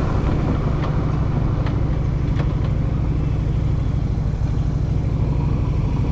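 Motorcycle engine running steadily at low revs, heard from the rider's seat while rolling slowly in traffic, with a few faint ticks in the first couple of seconds.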